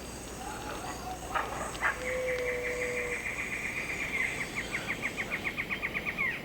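Tropical rain forest ambience: an animal's long, rapid trill of high repeated notes starts about two seconds in and runs for about four seconds, with a short low whistle near its start.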